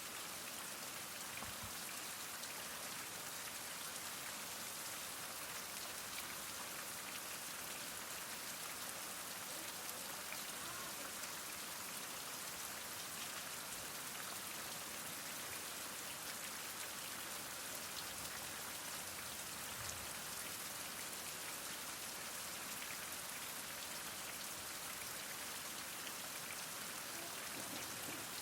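Heavy rain falling steadily, a dense even hiss with the fine patter of drops striking a surface.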